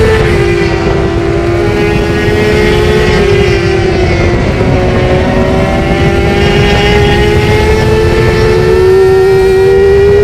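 Yamaha R6's inline-four engine running at high revs under way, heard from a microphone on the bike's tail. Its pitch dips a little in the first few seconds, then climbs gradually toward the end.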